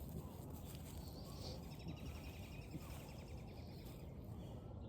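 A high, rapid trill, two overlapping rows of quick pulses from an animal call, running for about two seconds from the middle, over a faint steady low outdoor rumble.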